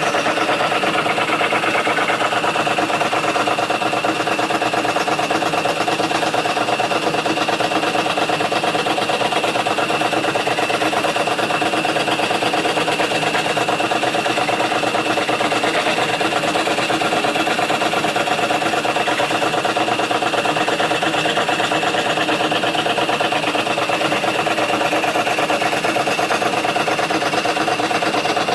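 Scroll saw running at a steady speed, making an even, unbroken machine sound with several steady tones.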